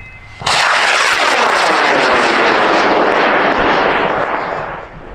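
Aerotech K550 high-power rocket motor igniting about half a second in and burning with a loud, steady rushing noise for about four seconds as the rocket lifts off, fading near the end.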